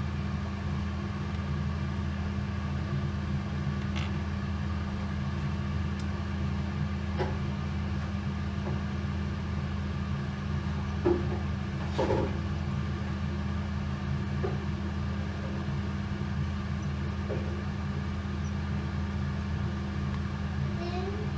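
Steady low mains hum from electric soldering equipment, switched on just before the repair solder joint is made. A few light clicks and taps of work on the small part come about 4, 7, 11 and 12 seconds in.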